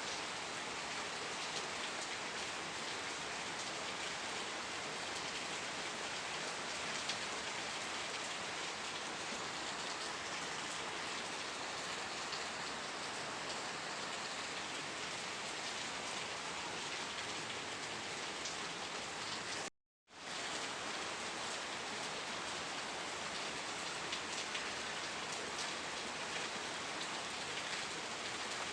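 Steady rain falling, a dense even hiss with the patter of individual drops. About twenty seconds in it cuts out to total silence for a split second, then resumes.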